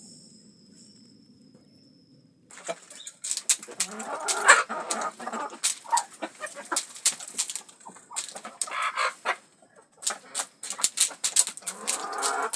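Domestic chickens clucking and pecking at feed, with many quick, sharp beak taps. The sound starts about two and a half seconds in, after a faint low hum.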